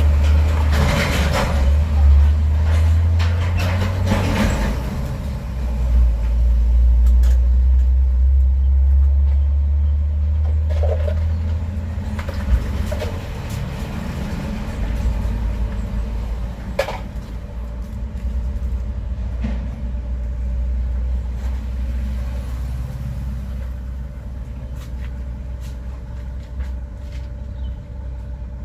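Road traffic passing close by: the deep engine rumble of heavy vehicles, loudest in the first dozen seconds and easing off toward the end, with a few short knocks.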